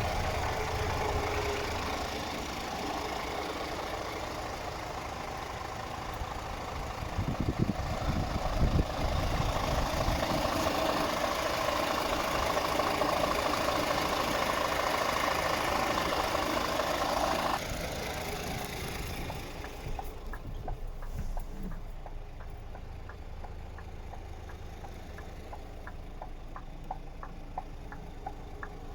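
Scania R440 truck's diesel engine idling steadily. About two-thirds of the way through, the sound abruptly becomes quieter and a light regular ticking comes through.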